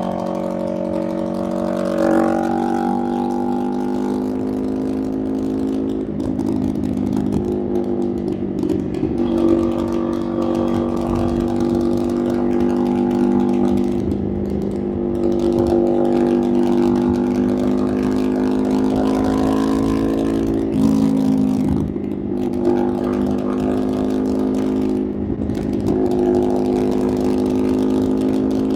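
Motorcycle engine running steadily under way, its pitch shifting a few times, about two seconds in, around six seconds and again near twenty-one seconds.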